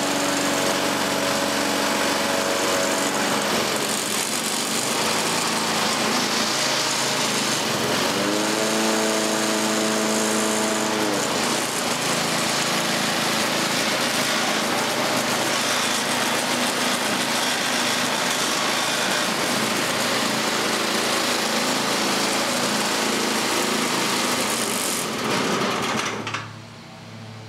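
Tecumseh TVS105 L-head single-cylinder engine on a self-propelled walk-behind lawn mower running, its speed rising and falling as it is taken between low and high throttle. The sound drops away abruptly near the end.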